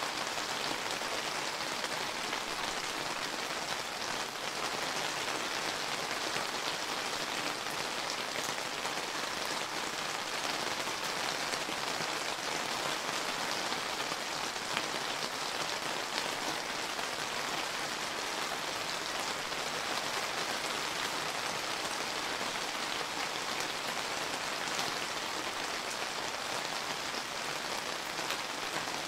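Steady summer rain falling and pattering on surfaces, an even hiss of many drops with small individual drop ticks.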